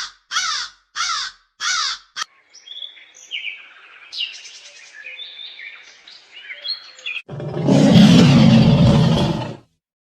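A bird cawing, about four harsh calls in quick succession, followed by quieter assorted bird chirps and whistles. Near the end comes a loud, harsh, noisy sound lasting about two seconds that stops abruptly.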